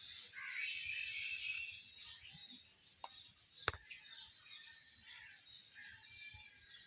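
Birds chirping over a steady high hiss, busiest in the first two seconds, with one sharp click a little past halfway.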